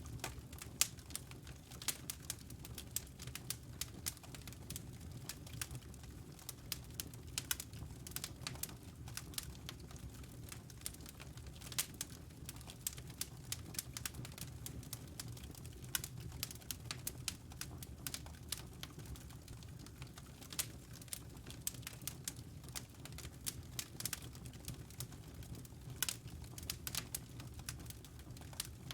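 Wood fire burning in a fireplace: burning logs crackle and pop in irregular sharp clicks over a low steady rumble of flame.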